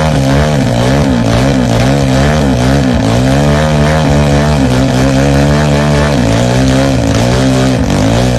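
Motorcycle engine held at high revs, loud, its pitch wavering up and down as the throttle is worked.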